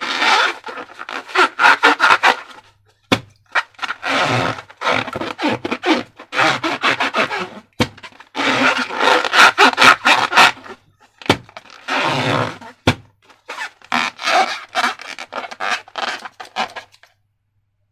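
Slime being squished and worked by hand, making dense sticky crackling and clicking in bursts of a few seconds with short pauses between them, and a few single sharp clicks.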